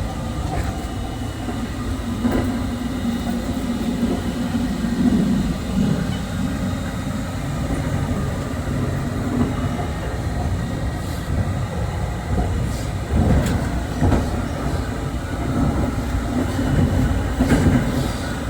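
Running noise of a JR 681-series limited express electric train heard inside the car: a steady low rumble of wheels on rail, with occasional knocks and rattles.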